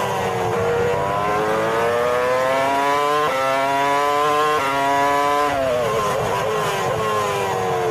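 Vehicle engine running under changing revs, its pitch dipping, then climbing steadily, jumping up suddenly about three seconds in and dropping back a little over a second later before falling and rising again.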